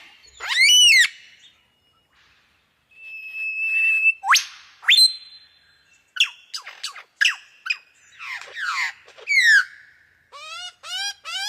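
Lyrebird singing a varied run of mimicked calls: arched whistled notes, a held whistle about three seconds in, two sharp upward-sweeping whip-like notes around four to five seconds, then quick falling chirps, ending in a fast series of repeated rising-and-falling notes.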